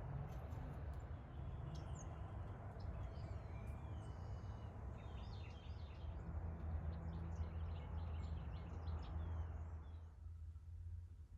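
Small birds chirping over a steady low background rumble, which drops away about ten seconds in.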